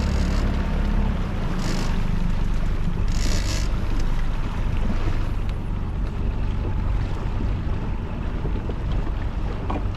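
Outboard motor of a small inflatable boat running steadily under way, with wind buffeting the microphone and water rushing along the hull. A short hiss of spray about three seconds in.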